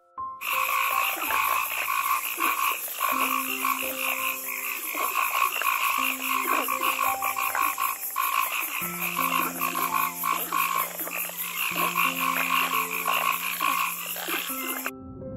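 A chorus of many frogs calling together in a dense, fast-pulsing trill, with long low steady notes underneath. It starts about half a second in and cuts off suddenly just before the end.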